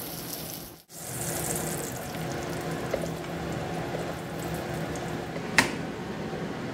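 Eggplant slices sizzling as they fry in hot oil in a nonstick pan: a steady crackling hiss. The sound cuts out for an instant about a second in, and there is one sharp click of the metal spatula against the pan past the middle.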